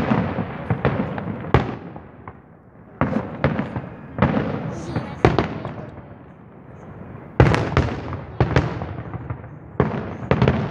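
Fireworks display: aerial shells bursting in irregular volleys of sharp bangs, each trailing off in a rumbling echo, with short lulls between; the loudest run of bangs comes about seven and a half seconds in.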